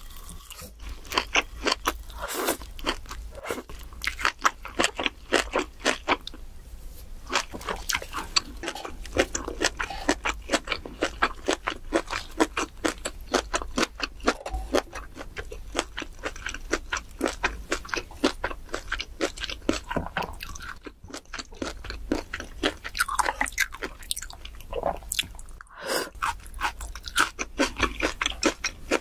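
Close-miked chewing of a mouthful of crisp leafy greens: rapid crunching, several crunches a second, with a couple of brief pauses about two-thirds of the way through.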